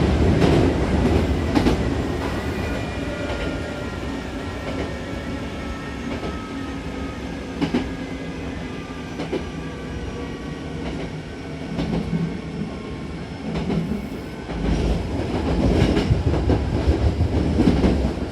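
Hankyu 6000-series electric train running, heard from inside the car: a steady rumble with scattered rail clicks and a faint whine falling in pitch. The rumble grows louder about fifteen seconds in.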